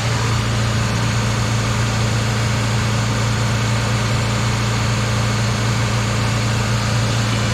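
Car engine idling steadily with an even, unchanging hum.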